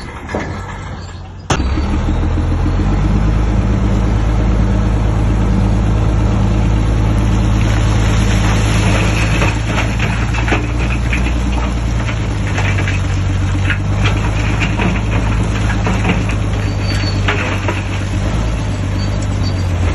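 Shantui DH17C3 bulldozer's heavy diesel engine working under load, starting abruptly about a second and a half in and running steadily with a deep note. Intermittent metallic clanks come through in the middle stretch.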